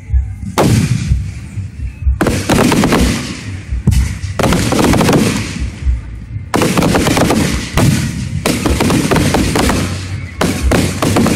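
Fireworks going off in rapid volleys of bangs and crackles. The first burst comes about half a second in, and then dense clusters follow each other with brief lulls between them.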